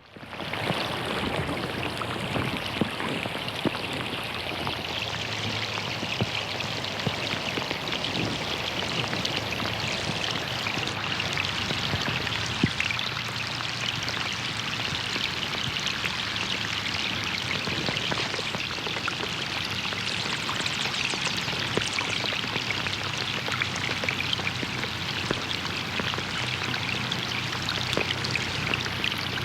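Rain falling steadily on a pond, a dense patter of drops hitting the water, with running water mixed in. It fades in at the start.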